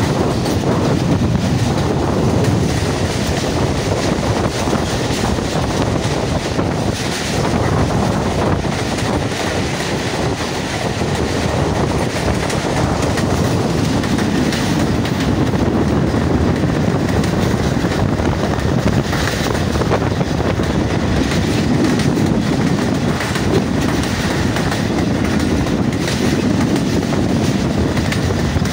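Pakistan Railways passenger express train running steadily, heard from aboard: a continuous rumble of wheels on the track with light rhythmic clicks from the rails.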